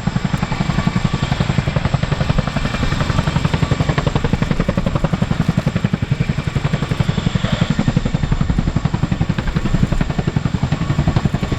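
RAF Boeing CH-47 Chinook's twin tandem rotors beating in a fast, even blade slap, together with the turbine whine, as the helicopter hovers low setting down an underslung load.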